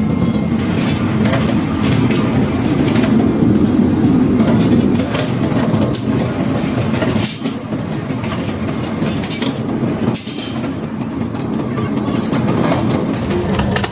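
Heavy metalworking machinery running continuously, with frequent short metallic clanks and knocks.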